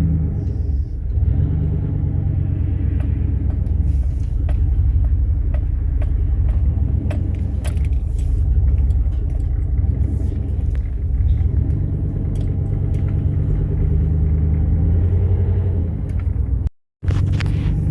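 2002 Dodge Ram pickup with a freshly fitted custom exhaust, running while being driven: the engine note rises and falls with light rattling and jingling clicks over it. The sound cuts out briefly near the end.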